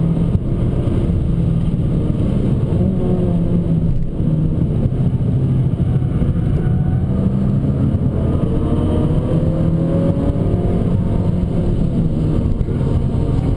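Abarth 595 Competizione's turbocharged 1.4-litre four-cylinder engine pulling hard, its pitch climbing and dropping as it accelerates and changes gear.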